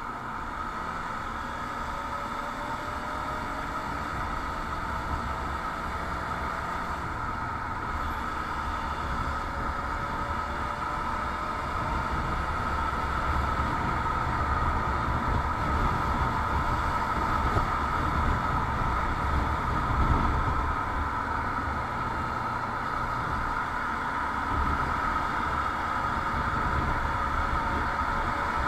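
Motorcycle running under way with steady road and wind noise, its engine note drifting slightly up and down. The sound grows gradually louder.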